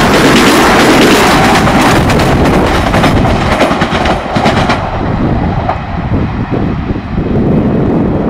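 Pesa ED161 Dart electric multiple unit passing at about 100 km/h: a loud rush of wheels and air with clacks from the wheels on the track. About five seconds in, the hiss drops away as the tail of the train recedes, leaving a low rumble and wind on the microphone.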